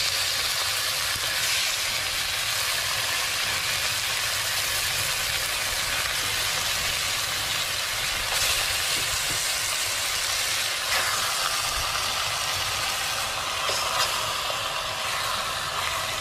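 Eel pieces sizzling in butter with sautéed ginger, turmeric, garlic and onion in a pot: a steady frying hiss, with a few faint knocks as more pieces are dropped in.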